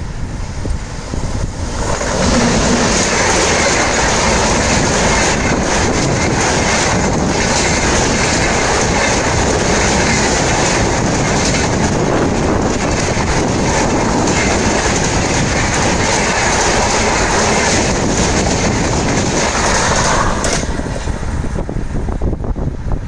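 Express train of LHB coaches passing close at high speed: a loud, steady rush of wheels on rail that swells about two seconds in and drops off sharply near the end as the last coach goes by.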